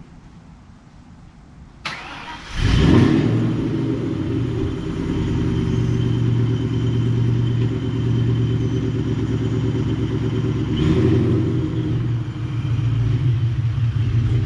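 A car engine starting about two and a half seconds in, after a sharp click, then running with a steady low rumble.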